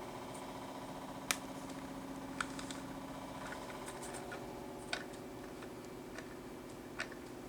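A few faint, sharp clicks of small parts and a tool being handled while the rotor pitch of a small RC helicopter is adjusted by hand, over a steady low hum.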